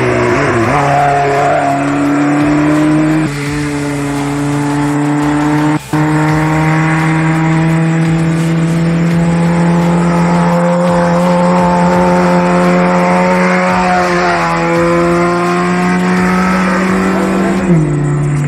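Off-road race vehicle's engine running at fairly steady revs, its pitch creeping slowly up. The sound briefly drops out about six seconds in, and the pitch falls suddenly near the end.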